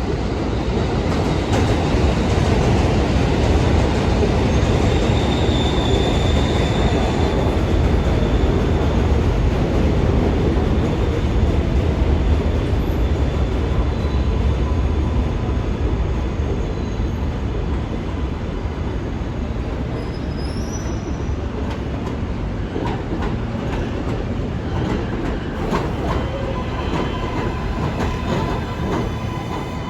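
New York City subway train running on the rails: a steady rumble of wheels and track with a brief high wheel squeal, loudest in the first half and easing off later.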